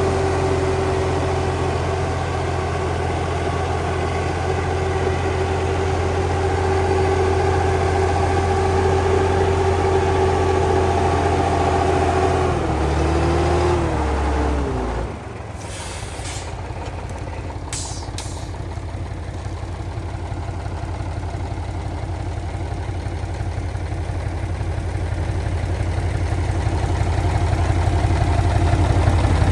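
Heavy truck engine running steadily, its pitch shifting down about halfway through before the note drops away. Two short hisses follow, then the engine runs on and grows louder.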